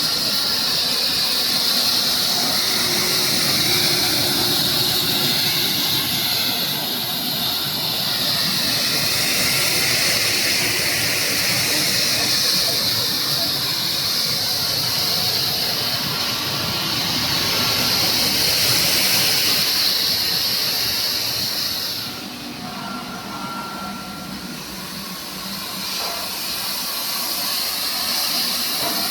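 High-pressure water spray of a ginger washing machine hissing steadily. The hiss drops away for a few seconds about three-quarters of the way through, then comes back.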